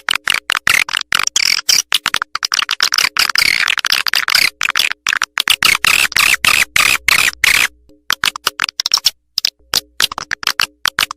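Recorded swiftlet lure call played back: a fast, dense chatter of clicking chirps and twitters, the kind used to draw swiftlets into a nesting house. It thins into sparser clicks after about eight seconds.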